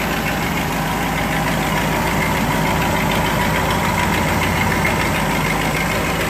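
1959 Cadillac DeVille's 6.4-litre (390) V8 idling steadily, warming up after a coolant refill so that air can be burped out of the cooling system.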